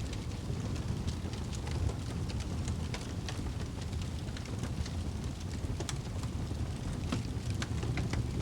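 Wood fire burning in a fireplace: a steady low roar of flames with frequent sharp, irregular crackles and pops.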